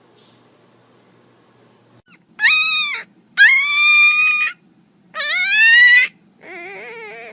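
Puppy howling: after about two seconds of quiet, three loud, high-pitched howls about a second long each, the later ones sliding up in pitch, then a quieter wavering howl near the end.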